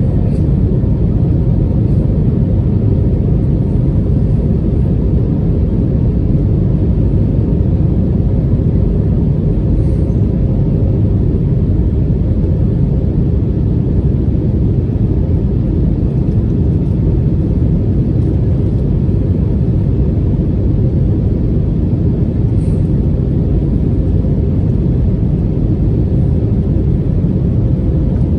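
Cabin noise inside an Airbus A320neo with Pratt & Whitney geared turbofan engines: a loud, steady low rumble of engines and airflow, with faint steady hums above it, during the takeoff climb.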